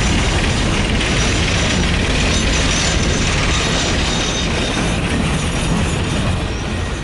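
Coal hopper cars of a freight train rolling past close by, their steel wheels running on the rails in a steady, loud rumble and rattle.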